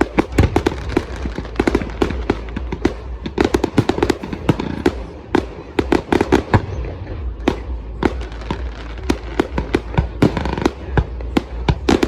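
Fireworks going off: a dense, irregular run of sharp bangs and crackles, several each second.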